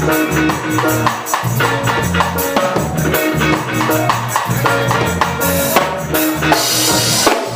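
Reggae band playing live, an instrumental passage: drum kit keeping a steady beat over a sustained bass line, with a cymbal wash near the end.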